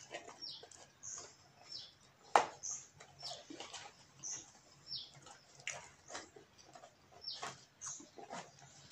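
Close chewing and lip-smacking on a chicken wing, with sharp wet mouth clicks, the loudest a little over two seconds in. Behind it a bird chirps again and again in short, high, falling chirps.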